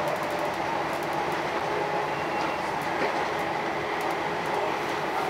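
Inside a Northern class 319 electric multiple unit running at speed: a steady noise of wheels on rail, with faint clicks over it.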